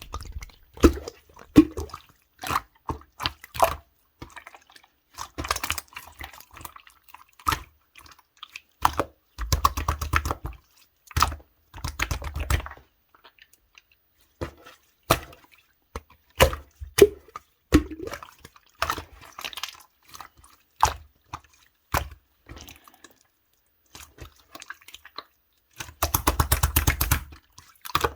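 Slime being squished, pressed and poked by hand, giving wet clicks, pops and crackles that come in quick runs with short pauses between.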